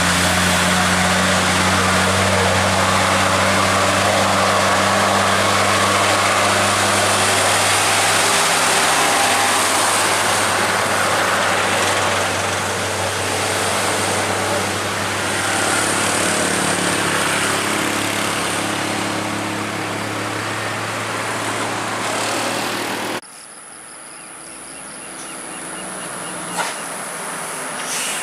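Heavy diesel truck running close by with a steady low engine hum. The hum fades after several seconds, leaving a rushing noise that slowly eases, and the sound cuts off suddenly to a much quieter background near the end.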